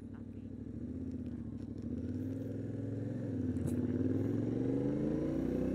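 Yamaha Ténéré 700's parallel-twin engine accelerating, its note rising steadily and getting louder, with a short dip in pitch about three and a half seconds in as it shifts up a gear.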